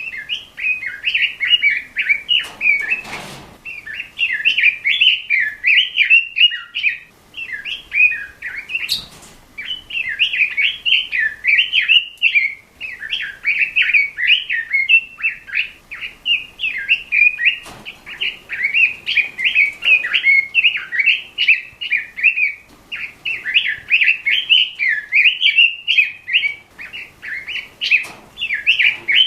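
Pekin robin (red-billed leiothrix) singing a fast, continuous warbling song in long phrases separated by short pauses, with a few faint clicks in the background.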